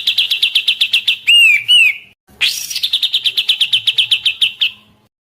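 A caged songbird's song, used as a masteran tutor recording: a fast, high trill of about ten notes a second. It is broken about a second in by two loud arching whistles, then after a short pause a second trill phrase starts, which fades out near the end.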